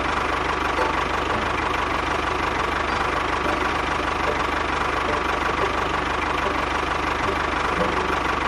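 Small motor of a DIY miniature tractor running steadily.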